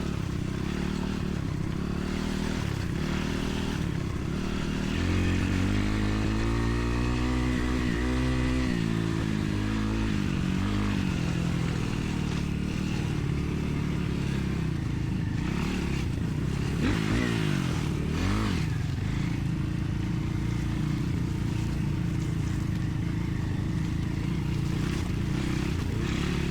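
Dirt bike engine running as the bike is ridden, its pitch rising and falling with the throttle, with bigger revs a few seconds in and again past the middle.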